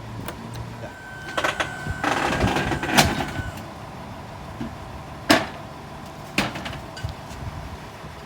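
Knocks and clunks of household goods being handled and unloaded from a box truck, with a steady high whine for about two and a half seconds starting about a second in. Sharp bangs come near three seconds and again past five seconds.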